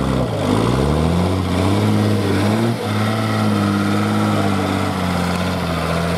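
Heavy truck's diesel engine revving up and down, then settling to a steady, fairly low run.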